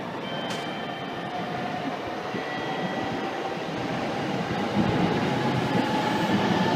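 Shinkansen train moving alongside the platform, its running noise growing steadily louder, with a faint steady whine.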